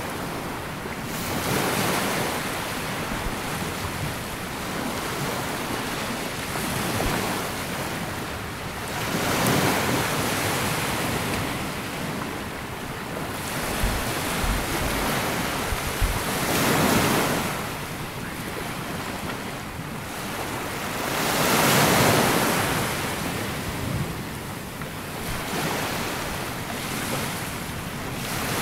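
Sea waves breaking and washing up a sandy beach, swelling and easing every few seconds, the strongest surges near the middle and about three quarters through.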